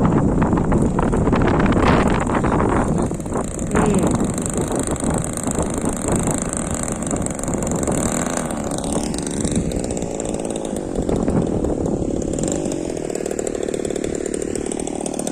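DLE 20cc single-cylinder two-stroke gasoline engine of an RC Zero warbird model running, its pitch rising and falling in the second half, with wind buffeting the microphone in the first few seconds.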